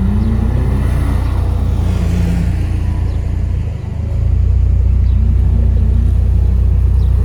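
Car engine idling with a steady low rumble. It dips briefly about four seconds in and then comes back a little louder.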